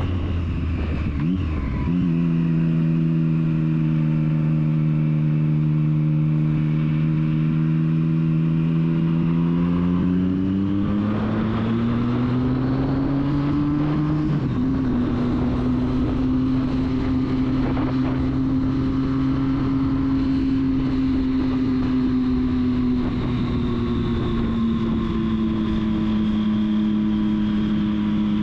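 Triumph Street Triple's three-cylinder engine pulling steadily under way. The revs jump about two seconds in, climb gradually, then drop sharply at a gear change about halfway through and settle again.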